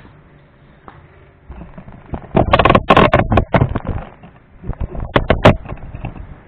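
A parcel's packaging being handled and opened by hand: two runs of sharp rustling noises, the first about two seconds long and the second about a second.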